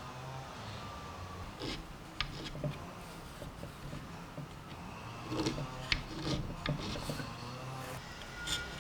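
Small hand-held scraper blade scraping old finish off a wooden table leg, in short irregular strokes that come in bouts around two seconds in and again from about five seconds.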